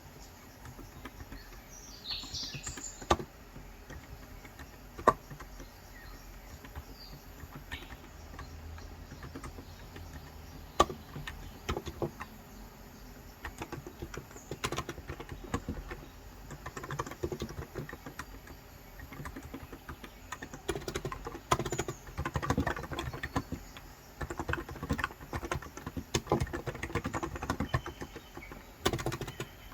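Typing on a Cox Endeavour electrostatic capacitive (Topre-style) 35 g tenkeyless keyboard. A few isolated key presses come in the first ten seconds, then denser runs of typing from about halfway in. A bird chirps briefly about two seconds in.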